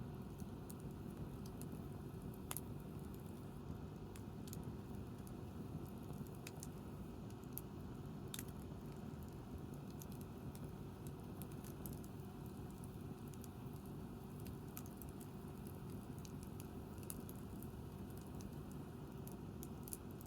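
Wood campfire crackling: scattered sharp pops and ticks from the burning wood, irregular and a few seconds apart, over a steady low background.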